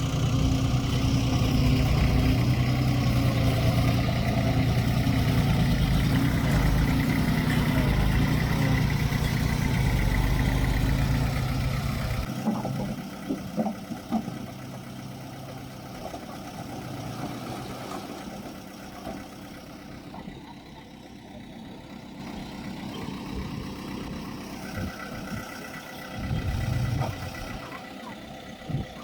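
Heavy earthmoving machine's diesel engine running loud and steady, then dropping away suddenly about twelve seconds in, leaving a quieter engine sound with a few scattered knocks.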